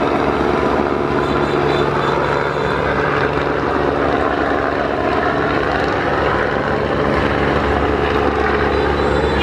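Steady drone of a river passenger launch's diesel engines running at speed, a low even hum with a rushing noise over it.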